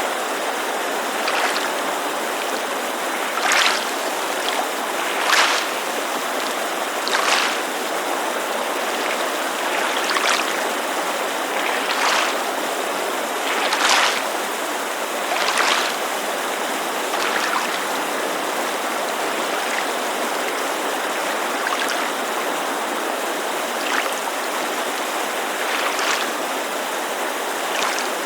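Small waves lapping against a lakeshore, a soft splash about every two seconds, over the steady rushing hiss of a mountain creek.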